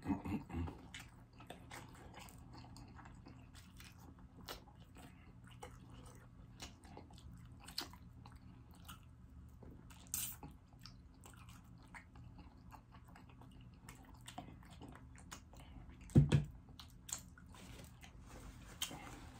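Close-miked eating of pancake-battered fried chicken: chewing, biting and wet lip-smacking, with many small mouth clicks throughout. There is a louder low mouth sound right at the start and another about sixteen seconds in.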